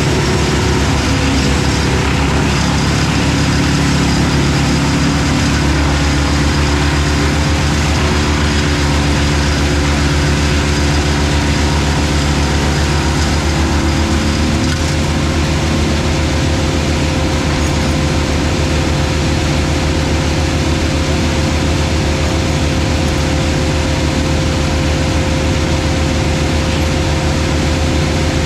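Heavy diesel machinery running steadily: an excavator and a wood chipper working together, with a steady hum held over the engine noise.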